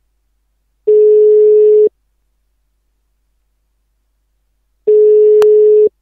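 Telephone ringback tone over a Skype call: two steady one-second beeps, four seconds apart, on the same mid pitch, the cadence of the Belgian ringing tone. The called police line is ringing unanswered. A short click sounds during the second beep.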